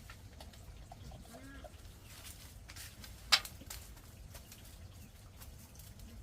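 An animal's short call, rising then falling, about a second and a half in, with scattered light clicks. A single sharp knock near the middle is the loudest sound.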